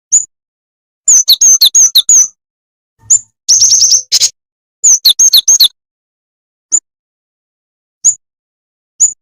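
Jingjing tetep bird lure call: high, quick chirps in short runs of five or six through the middle, then single chirps spaced more than a second apart near the end, with dead silence between them.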